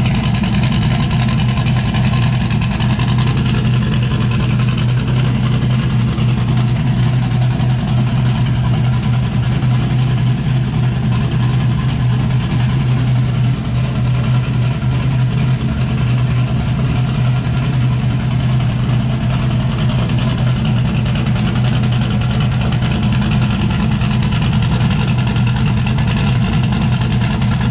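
Turbocharged LS V8 in a Chevy S10 drag truck idling steadily with an aftermarket cam, now running on all eight cylinders after three clogged injectors were cleaned.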